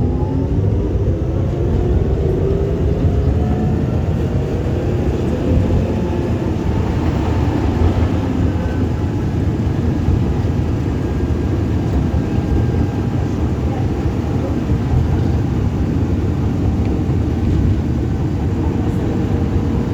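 Electric tram running along its rails: a steady low rumble of wheels and running gear, with the whine of the traction motors rising in pitch in the first couple of seconds as it picks up speed.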